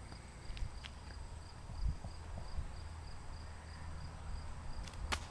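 Insects chirping in the background, a faint high pulse repeating about three times a second, over a low rumble. A single sharp click sounds just before the end.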